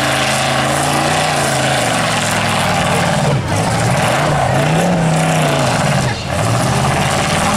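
Pickup truck engines in a demolition derby, revving up and down in slow swells with their pitch rising and falling. The engine noise is loud throughout and dips briefly twice.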